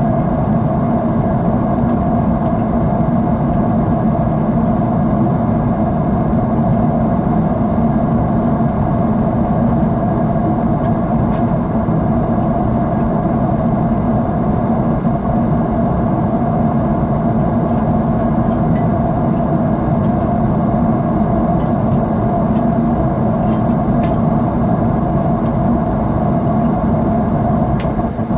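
Steady low roar of an airliner cabin in cruise: jet engine and airflow noise heard from a window seat, constant and unchanging.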